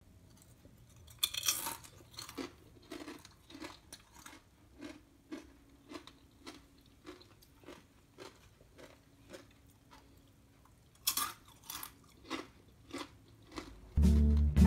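Crunchy sweet potato chips being bitten and chewed close up: crisp crunches at about two a second, with two louder bites, about a second in and near the end. Guitar music starts just before the end.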